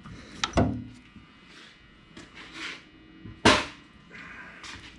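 Metal differential parts being handled and repositioned by hand, clinking and knocking. There is a double knock about half a second in, and the loudest, sharpest clack comes about three and a half seconds in, with lighter scraping between them.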